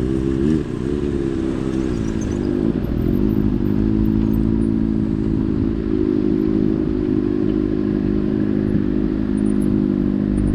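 Motorcycle engine running under way, its pitch rising and falling for the first few seconds, then holding steady.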